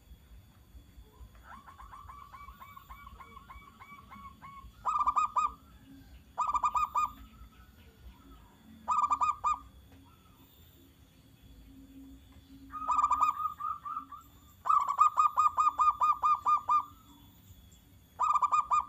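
Zebra dove (perkutut) singing: seven bouts of rapid staccato cooing notes, a softer drawn-out run near the start, short clipped bouts in between, and the longest, loudest run about three-quarters of the way through.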